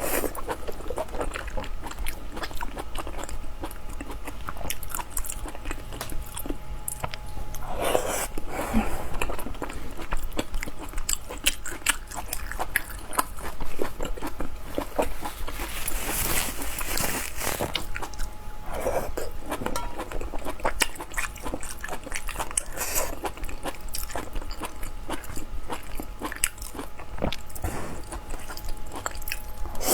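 A person chewing and biting close to the microphone: a continuous run of wet smacks and crunchy clicks, with two longer, louder rushes of noise about 8 and 16 seconds in.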